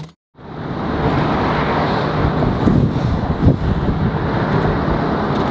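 Cars driving at speed on the road: a steady rush of tyre and wind noise with no clear revving, after a moment's silence at the start.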